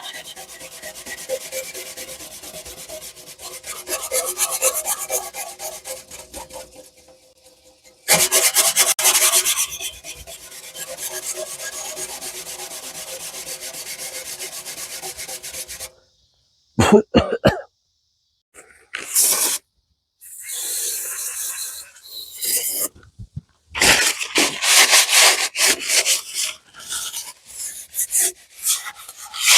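Mini wire brush scrubbing rust off painted steel in rapid back-and-forth strokes, with several short breaks.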